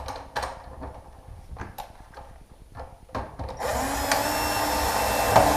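A few light clicks and knocks of handling, then about three and a half seconds in a power screwdriver spins up and runs steadily for about two seconds, driving a screw to fix a door hinge into wood.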